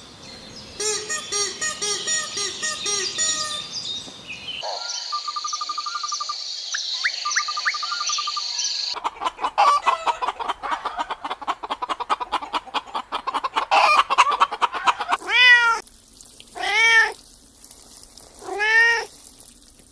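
A run of different animal calls: a string of short pitched calls, then a steady high trilling, then a fast pulsing chatter, ending with three drawn-out cat meows spaced about a second and a half apart.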